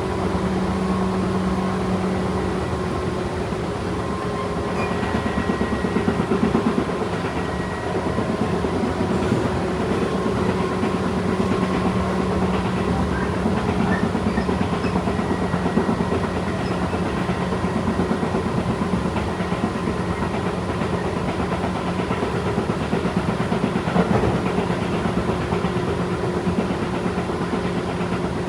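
Tobu 8000-series electric train running at a steady speed: a constant motor and gear hum over wheel and rail noise, with a single sharp click near the end.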